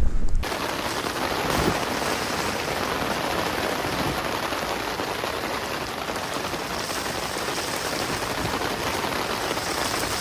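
Rain falling steadily, a dense even hiss that cuts in abruptly about half a second in, replacing low wind rumble on the microphone.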